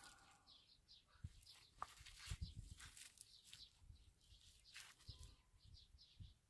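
Faint, repeated bird chirping in the background, with a few soft clicks and low knocks of handling, the loudest about two seconds in.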